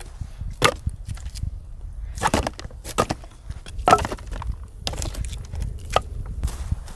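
Firewood logs being handled: about six sharp wooden knocks at uneven intervals.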